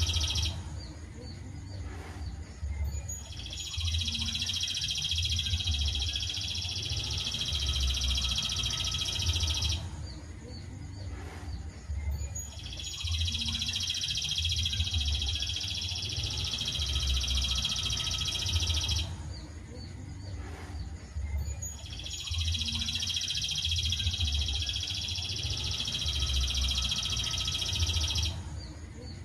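Songbird masteran recording: a dense, high, buzzing trill held for about six seconds, repeated three times at even spacing with pauses of about three seconds between, over a low pulsing hum.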